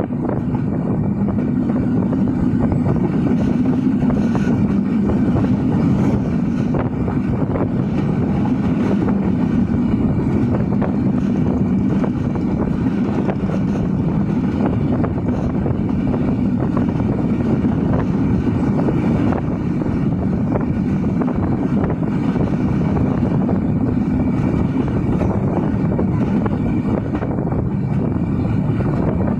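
Silkcity Express passenger train running along the track: a steady, loud noise of wheels on the rails, with faint irregular clicks throughout.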